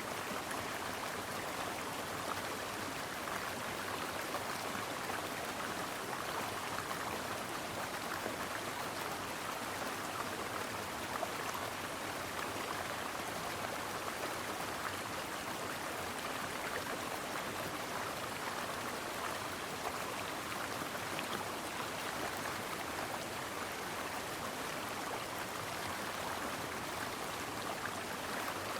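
A brook flowing over stones, a steady babble of running water with fine splashing.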